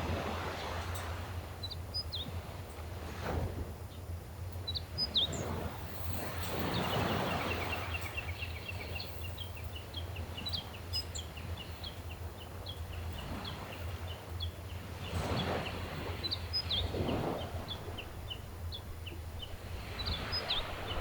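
Gentle sea waves washing ashore in slow surges every few seconds over a steady low rumble, with small birds giving short high chirps throughout. About a third of the way in, a bird gives a quick run of repeated notes.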